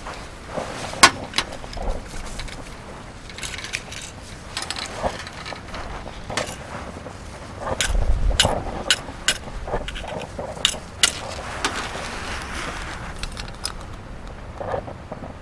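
Irregular sharp clicks and knocks, with a dull thump about eight seconds in.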